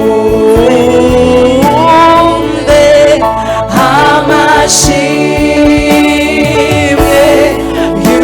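Gospel song: voices singing a melody over instrumental accompaniment with a steady bass.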